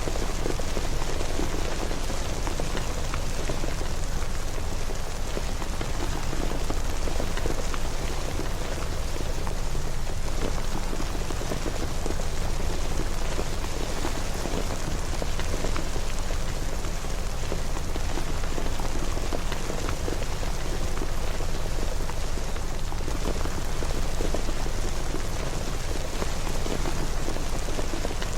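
Steady rain falling, a dense, even patter of drops over a constant low rumble.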